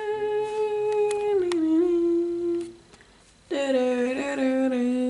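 A person humming long held notes: a steady note that steps down in pitch about halfway, a short break, then a lower note held to the end.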